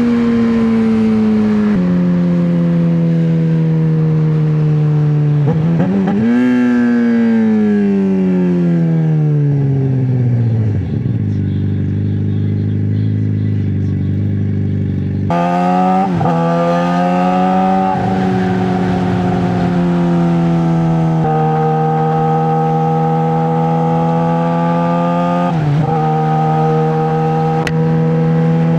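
Straight-piped 2009 Suzuki GSX-R600 inline-four engine under way: it holds a steady pitch, blips about six seconds in, then winds down for several seconds as the bike slows. About halfway the throttle snaps open and the revs climb with quick breaks at the gear changes, then it settles into a steady cruise with one short dip near the end.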